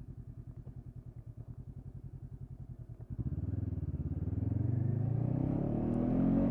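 2013 Honda CB500X's parallel-twin engine, fitted with a Staintune exhaust, ticking over with a fast low pulse, then about three seconds in the bike pulls away and the engine note rises steadily as it accelerates.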